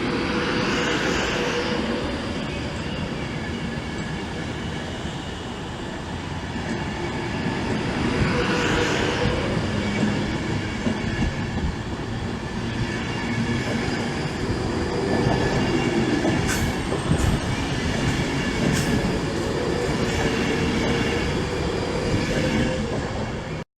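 Passenger train moving along a station platform: a steady rumble of wheels and traction with a few sharp clicks from the wheels over rail joints late on.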